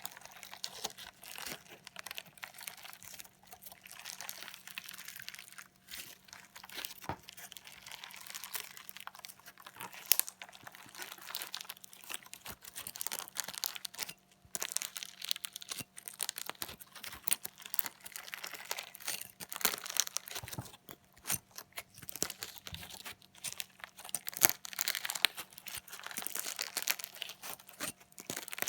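Slime mixed with sequins being stabbed and worked with a fork: dense crinkling and crackling, with many sharp clicks.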